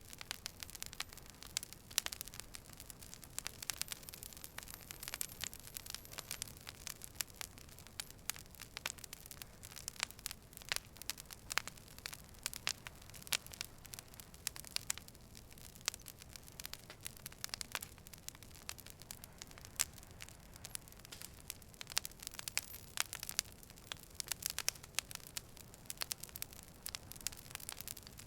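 Campfire crackling: a dense, irregular run of sharp pops and snaps over a low steady rumble of the burning wood.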